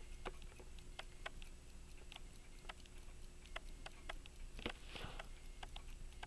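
A mechanical timepiece ticking steadily, about two to three ticks a second, with a brief scrape of small-tool handling a little over halfway through.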